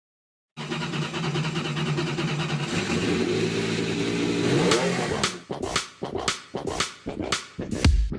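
Car engine running steadily, then revving up about four and a half seconds in, followed by a quickening series of short, sharp throttle blips.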